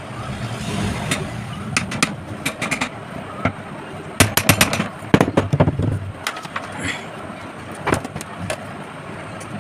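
Irregular clicks and knocks, bunched most thickly just past the middle, over a steady low background noise.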